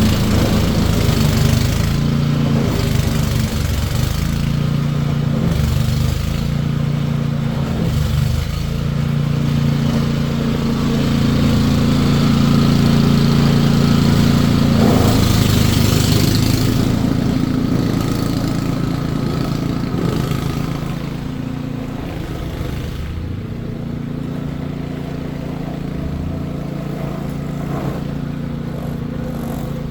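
An engine running steadily, a low hum whose pitch shifts a little, growing quieter about two-thirds of the way through.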